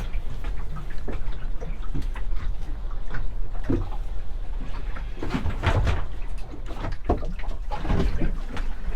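Steady wind rumble on the microphone, with water slapping against a small boat's hull and a few dull knocks, the loudest about halfway through and near the end.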